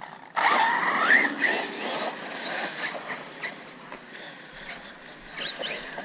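Radio-control car taking off hard: a sudden loud burst as its electric motor whines up in pitch. It then keeps running at a lower level, with another short rise in pitch near the end.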